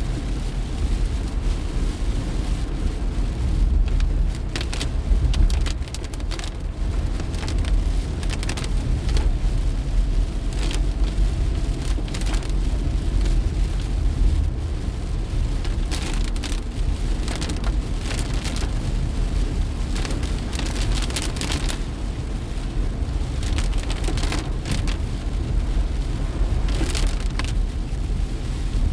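Rain pelting a moving car in heavy tropical-storm weather, heard from inside: irregular crackling spatters of drops on the glass and body over a steady low road and engine rumble.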